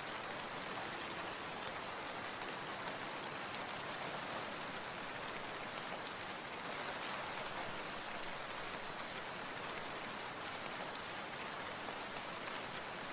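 Steady rain falling on a surface: an even hiss with fine scattered drop ticks, holding at one level throughout.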